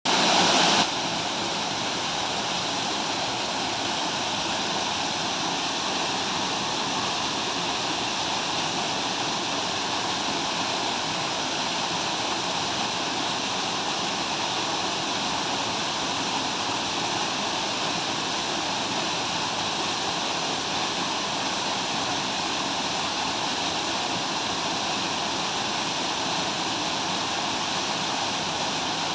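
Small waterfall, the water falling and splashing in a steady rush, a little louder for the first second.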